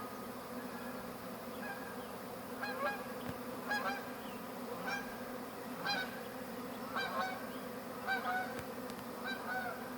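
Steady buzzing hum of a large honey bee swarm crowding into a hive box. From about three seconds in, a bird calls over it in short notes about once a second.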